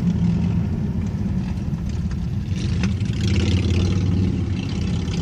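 A Triumph Stag's V8 engine and tyre noise heard from inside the moving car's cabin: a steady low drone, a little louder from about three seconds in.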